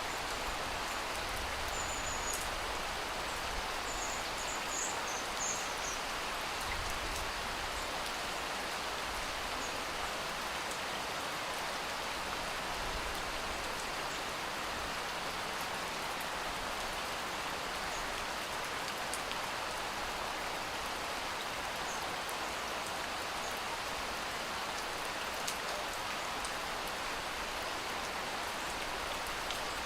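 Steady rain falling, an even patter with no break. A few short, faint high chirps come through a few seconds in.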